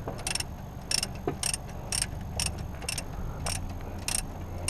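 Ratchet spanner being worked on a bolt, clicking in short strokes about twice a second over a low steady hum.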